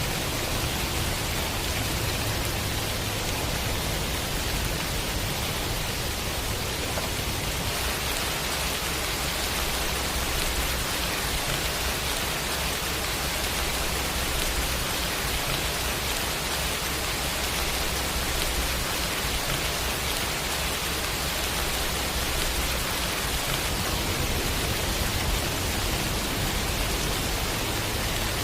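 Steady rain falling, blended with a constant noise hiss and a low steady hum underneath. The rain grows a little brighter about a quarter of the way in.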